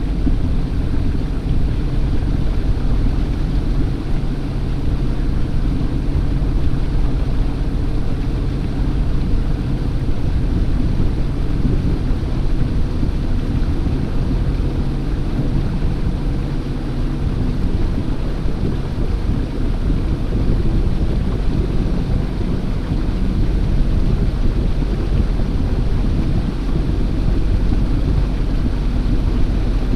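Boat motor running while under way, with heavy wind rumble on the microphone. The engine's steady hum weakens about halfway through.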